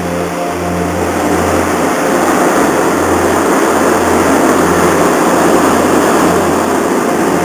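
A ferry's engines running with a steady low drone, under a rushing noise that swells in the middle.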